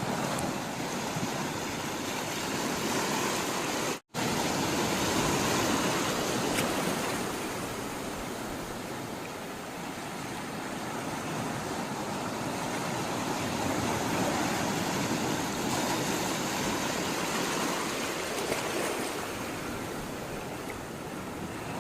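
Sea water rushing and washing in a steady noise that swells and eases, broken by a brief silent gap about four seconds in.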